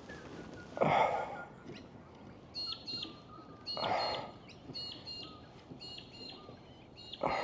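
A bird chirping over and over in short, quick, hooked calls, with three brief rushes of noise: about a second in, near the middle, and at the end.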